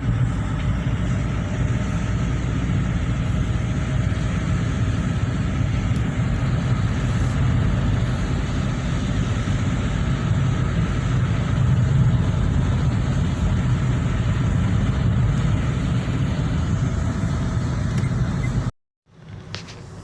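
Steady low rumble of a motor vehicle running, which cuts off abruptly near the end.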